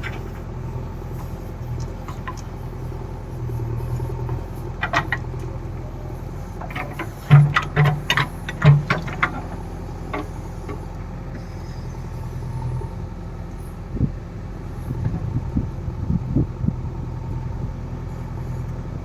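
A farm machine's diesel engine running steadily, with a cluster of loud knocks about seven to nine seconds in and a few more later on.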